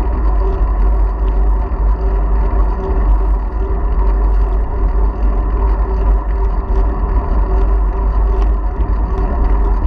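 Wind buffeting a bicycle-mounted GoPro's microphone on a moving bike: a loud, steady low rumble with a constant hum from the ride.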